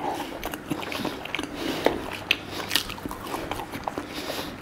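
Chewing and biting fried food (battered fish, squid and chips), with many small irregular crunches and clicks.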